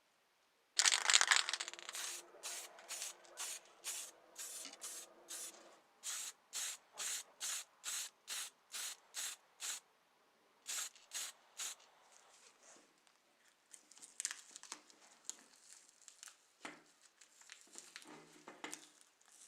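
A short loud hiss, then rhythmic rubbing strokes about two a second, fading into softer scattered rubbing and handling noise.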